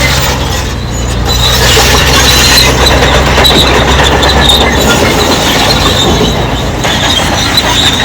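Crawler bulldozer working, its steel tracks squealing and clanking over a steady engine hum; the engine hum drops away about two-thirds of the way through while the track squeal goes on.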